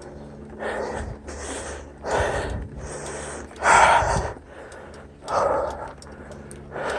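A mountain biker's heavy breathing close to the microphone, about six loud in-and-out breaths roughly a second apart, the strongest about four seconds in.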